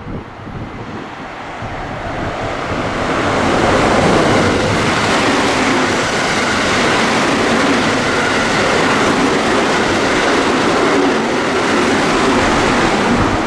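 A JR West train passing at speed. The noise of its wheels on the rails grows over the first few seconds, then stays loud as the cars go by.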